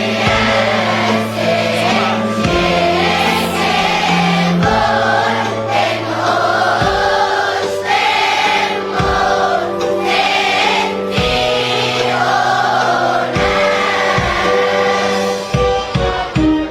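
Church choir singing an Arabic Christmas hymn over a steady sustained bass accompaniment that changes chord every couple of seconds; near the end, drum strikes come in.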